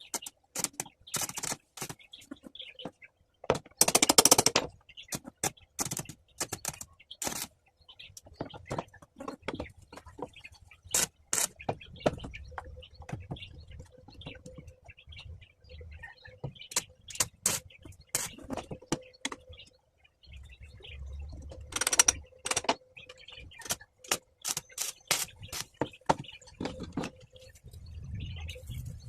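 Iron metalwork: an irregular run of sharp clicks and knocks, with two brief louder noisy bursts, one about four seconds in and one past the twenty-second mark.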